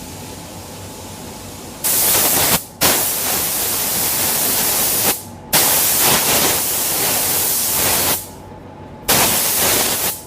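Pneumatic paint spray gun triggered in four passes, each a loud spray hiss lasting from about one to three seconds and starting and stopping sharply, over a fainter steady hiss.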